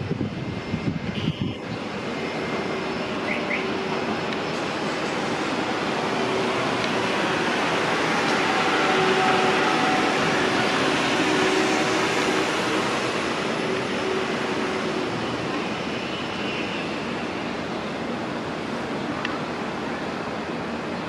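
Airliner engines passing: a steady roar with faint whining tones that builds to a peak about halfway through and then slowly fades away.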